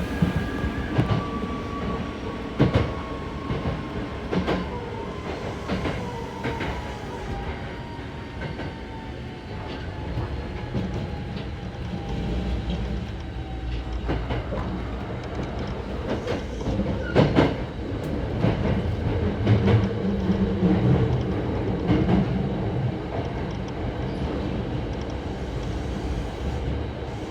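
Hankyu 6000 series electric train running, heard from inside the car: a steady rumble with wheel clacks over the rail joints, and a thin motor whine that falls steadily in pitch over the first half as the train slows.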